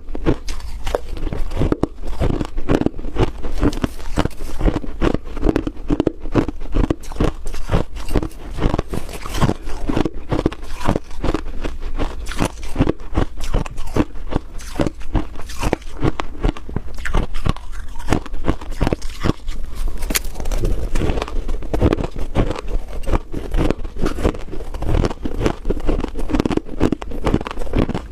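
Freezer frost being bitten and chewed: a dense, continuous run of crisp crunches with no pauses.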